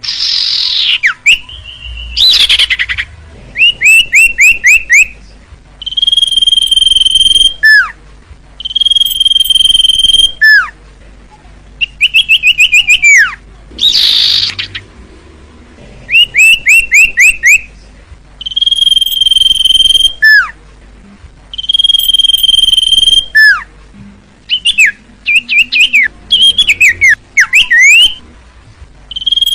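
Common iora (cipoh) singing a repeated song: quick runs of short falling notes alternate with long, level, high whistles that each end in a sharp downward slur, phrases coming about every two to three seconds.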